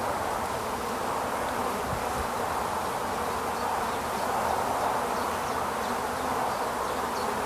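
A honeybee colony buzzing steadily over an opened hive, a continuous even hum.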